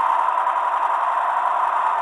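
Sound decoder of an H0 model DB V200 diesel locomotive playing its standing engine sound through tiny built-in speakers: a steady, even running noise with no bass.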